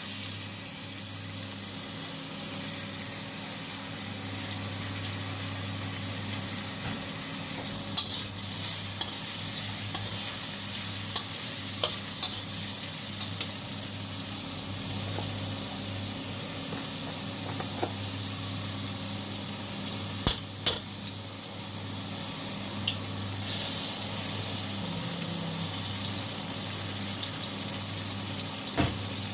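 Garlic and shrimp sizzling in hot oil in a steel wok, a steady hiss, with a metal spatula now and then scraping and clicking against the wok, including two sharp clicks close together a little past the middle.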